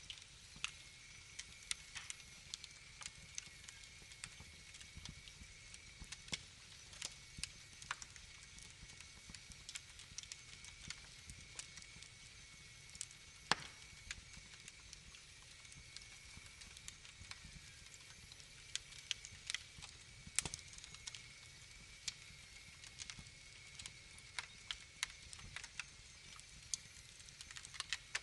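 Wood fire crackling in a fireplace: irregular sharp pops and snaps over a low steady hiss, with a faint steady high tone underneath.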